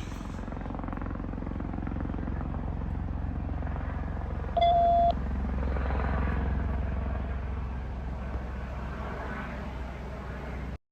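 Sheriff's helicopter flying overhead: a steady, low rotor drone with a fast pulsing throb. About halfway through, a short electronic beep lasting half a second cuts in over it.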